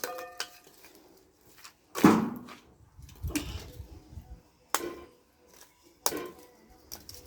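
Lumps of charcoal being dropped into a coal-pot stove: four separate knocks about a second and a half apart.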